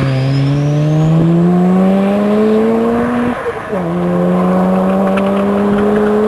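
Mazda RX-7 FD's twin-rotor rotary engine accelerating. Its pitch rises steadily through one gear, drops sharply at an upshift about three and a half seconds in, then climbs slowly again.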